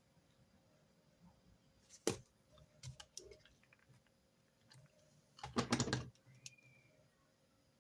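Desk clicks and taps from note-taking: a single sharp click about two seconds in, a few lighter clicks, then a quick cluster of clicks, the loudest part, near six seconds.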